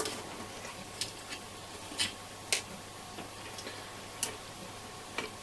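Sharp small clicks from the AOR AR-2002 receiver's front-panel keypad buttons being pressed, about five at irregular intervals over a faint steady hiss.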